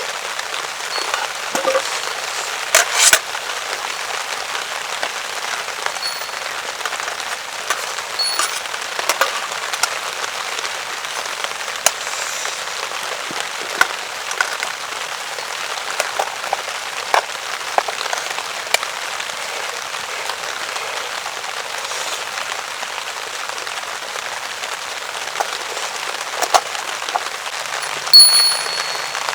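Steady rain pattering on a tarp, with scattered sharper drops and ticks. There is a louder knock about three seconds in, and a short ringing clink near the end.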